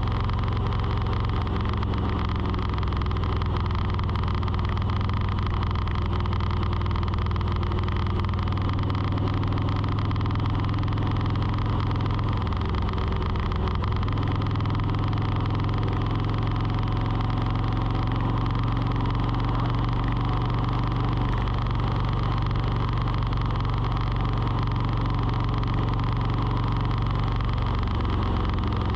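Steady low engine-like hum, with a slight shift in its low tones about halfway through.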